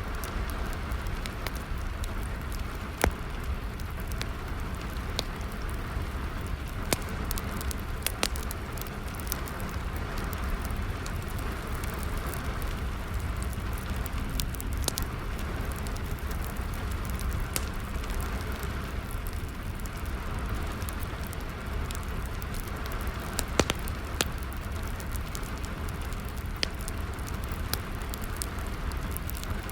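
Steady rainfall with a wood fire crackling, sharp irregular pops scattered through it, a few louder ones standing out.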